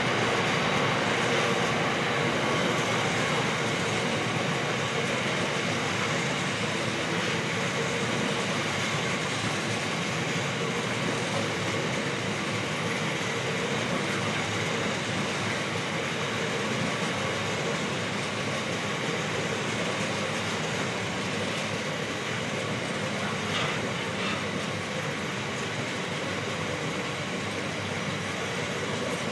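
Train running along the rails, its steady wheel-and-track noise easing off slowly.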